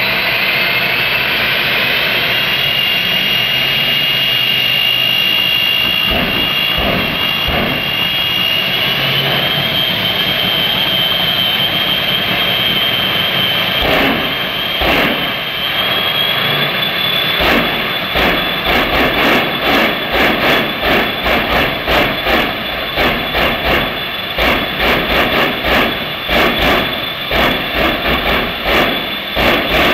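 Jet engines of a '57 Chevy jet truck running, with a high whine that climbs in pitch in steps. From about halfway it is broken by rapid, regular loud bursts, two to three a second, typical of a jet truck pulsing its afterburners.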